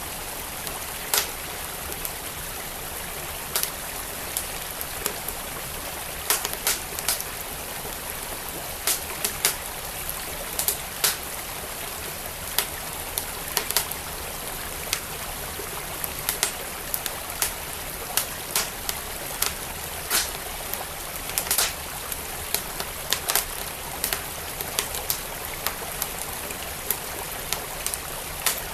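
Wood fire crackling, with irregular sharp pops and snaps, over the steady rush of a flowing stream.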